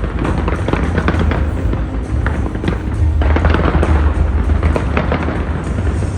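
Fireworks going off in a rapid string of bangs and crackles over a continuous low rumble.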